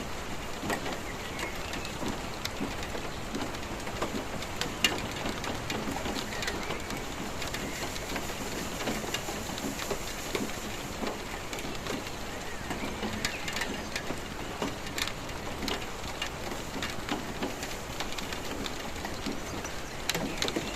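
Steady rainfall with individual drops tapping and splashing on surfaces, and one sharper, louder drip about five seconds in.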